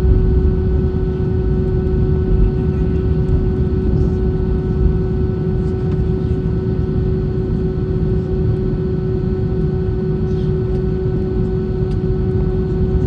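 Steady cabin noise inside an Airbus A320 airliner: a deep rumble of engines and airflow with a constant hum over it, holding steady throughout.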